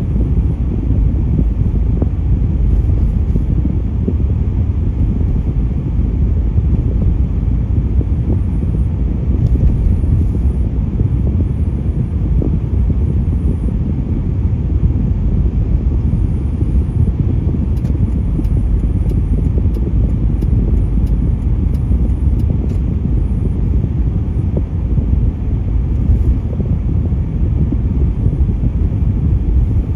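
Steady low road-vehicle rumble, an even drone of engine and road noise with no clear changes.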